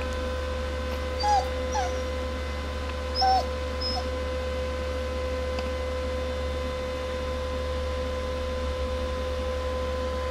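Dog whining in four short, high whimpers within the first four seconds, over a steady background hum.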